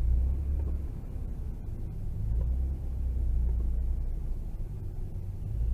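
Low rumble of a moving car heard from inside the cabin through a dash cam microphone, swelling and easing at times.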